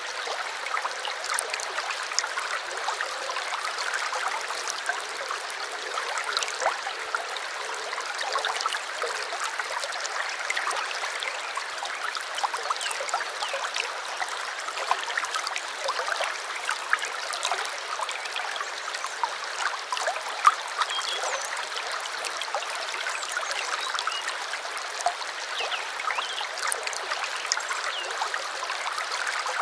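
A small brook running steadily, a trickling babble full of small splashes, with little depth in the low end.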